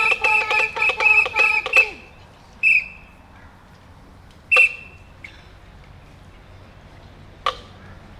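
Shrill whistle-like tones, several pitches at once with a warble, stop about two seconds in. Two short high whistled blips follow, then a faint click near the end.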